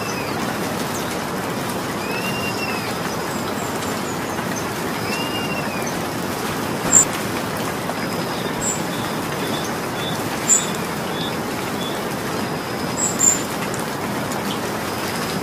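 Steady rain falling. A bird gives three short arched whistles, about two and a half seconds apart, in the first six seconds, and a few brief high-pitched ticks stand out later, the loudest about seven seconds in.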